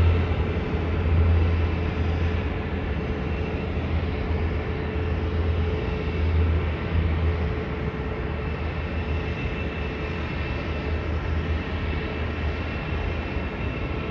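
Steady drone of aircraft engines with a strong low hum and a few steady tones, easing in level over the first several seconds and then holding.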